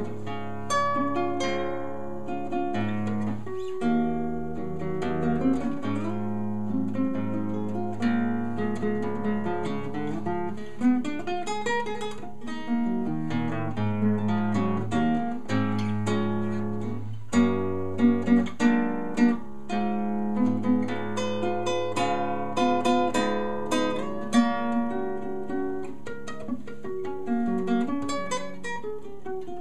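Solo acoustic guitar played fingerstyle: a plucked melody over a moving bass line, with a louder run of quick notes about two-thirds of the way through.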